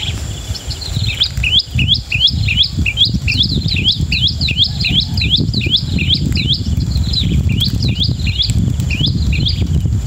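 A bird calling a quick run of short high chirps, about three a second, that thin out over the last few seconds, over a steady low rumble.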